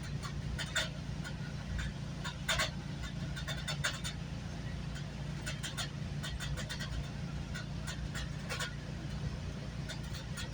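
GO Transit passenger train riding along, heard from inside the coach: a steady low rumble with scattered short clicks and rattles.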